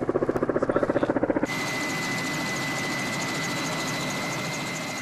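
Helicopter rotor beating in a fast, even pulse, cut off about a second and a half in by a steady engine rush with a high, steady whine, typical of a helicopter's turbine.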